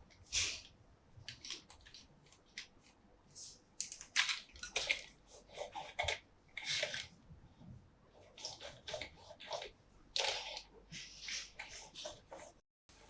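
Plastic toy parts and packaging being handled: an irregular run of short rustles and clicks, with a quiet break near the end.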